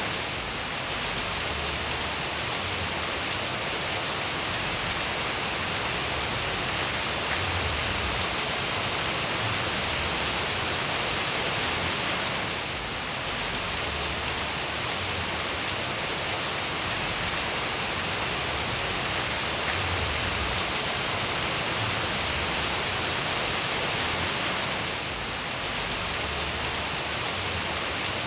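Steady, dense rainfall hissing on surfaces, with small dips in loudness about every twelve seconds.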